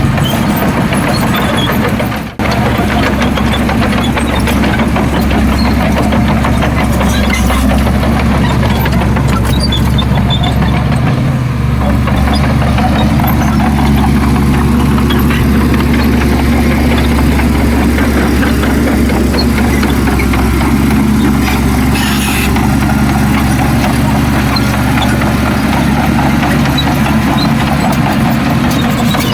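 Heavy diesel engine of earthmoving equipment running steadily at a low, even pitch, with a momentary dropout about two seconds in.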